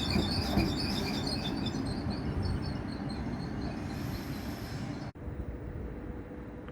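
Train running through a railway station: a dense low rumble with a rapid run of short high squeaks that fades away. About five seconds in, the sound cuts off abruptly and a quieter, steadier low rumble follows.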